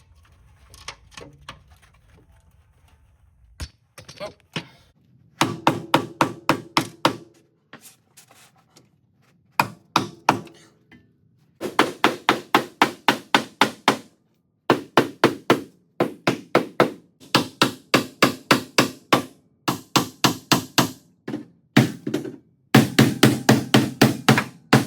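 Hammer striking car-body steel in quick runs of about six blows a second, with short pauses between runs. The blows start faint and sparse and come loud and steady from about five seconds in. They are knocking out collision damage while a frame machine pulls on the frame.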